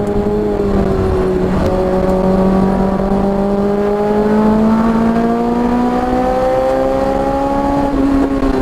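Car engine under load on a race track, its pitch climbing slowly and steadily as the car accelerates through a gear, then falling quickly near the end, as at a gear change or lift.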